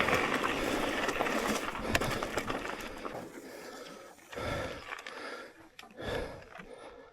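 Mountain bike riding noise, tyre roar, rattles and wind hiss with sharp clicks, dying away about three seconds in, followed by a rider's heavy breaths, one puff about every second.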